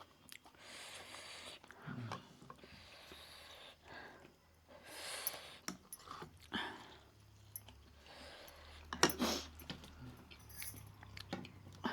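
Close-miked eating sounds: chewing with scattered clicks and clinks of food and dishes being handled, in short bursts, the loudest about nine seconds in.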